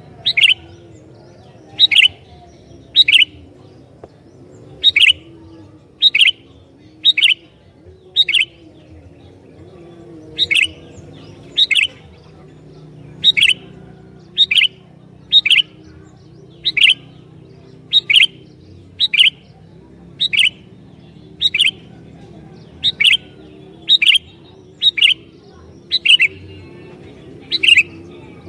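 Sooty-headed bulbul (kutilang) calling over and over: short, sharp, loud notes about once a second, some in quick pairs.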